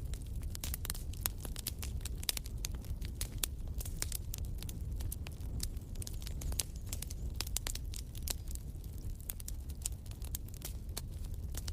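Wood fire in a fireplace crackling, with many irregular sharp pops over a low, steady rumble of the flames.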